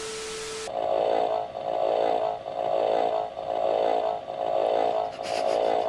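Lie-detector shock machine giving a pulsing electronic hum while it calibrates, swelling and fading about every 0.8 seconds. It opens with a short hiss and a steady low tone.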